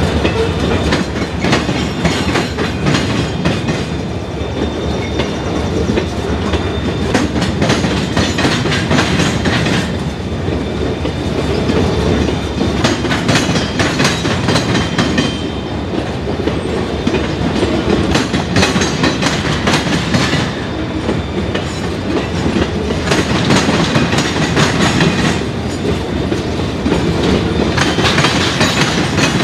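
Freight train cars rolling past on the track, their wheels clattering and clicking steadily over the rail joints.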